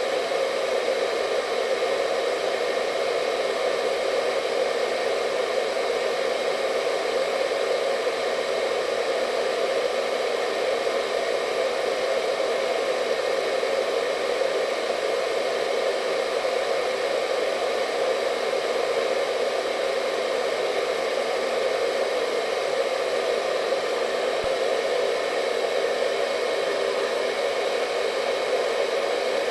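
Hair dryer running continuously at a steady speed: an even whooshing noise of blown air with a motor hum and a few faint high tones, unchanging throughout.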